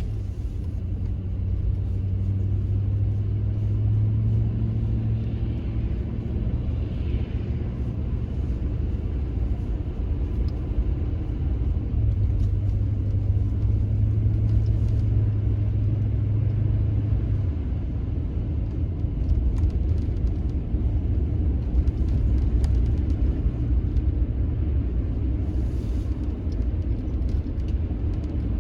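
Steady low rumble of a running engine, with a low hum whose pitch shifts a couple of times.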